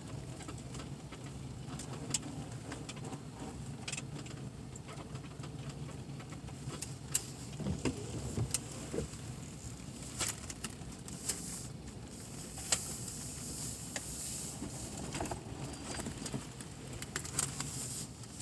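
Vehicle engine running with a steady low hum, with scattered sharp clicks and crackles over it and a stretch of hiss near the end.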